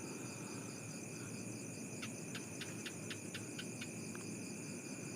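Night chorus of crickets and other insects, a steady layered high-pitched trilling, with a quick run of about eight sharp clicks a little after two seconds in.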